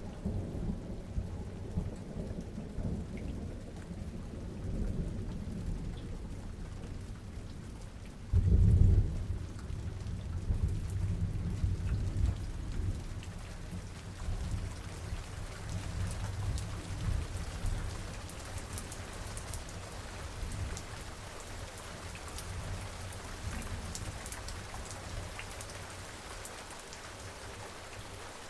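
Rain falling steadily during a distant thunderstorm. Low thunder rumbles on and off, with a louder thunderclap about a third of the way in whose rumble dies away over the next several seconds, leaving the rain and scattered drop patter.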